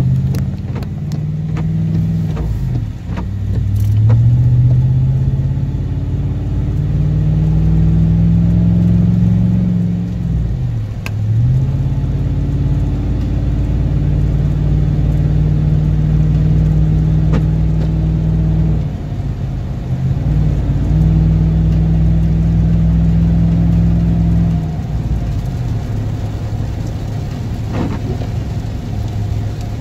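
A vehicle's engine and road noise heard from inside the cabin while driving. The engine hum holds steady for stretches and then drops in pitch about five times as the speed changes, with a few faint clicks.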